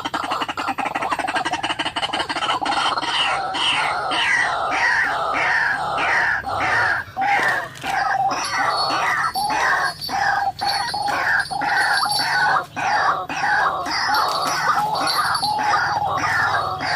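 White-breasted waterhen calling: a long run of harsh, repeated falling notes, two to three a second.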